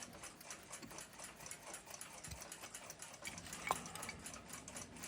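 Faint, fast and even mechanical ticking, with one sharper click a little under four seconds in.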